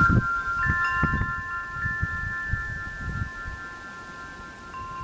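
Wind chimes ringing: several bell-like tones ring on for seconds, with fresh strikes about half a second in and again near the end.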